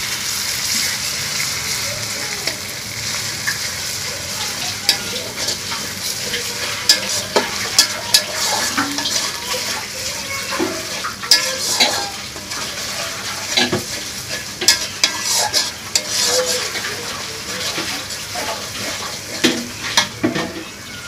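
Ginger-garlic paste sizzling as it fries in hot oil in a metal karahi, with a steady hiss, while a spatula stirs it, scraping and knocking against the pan at irregular moments.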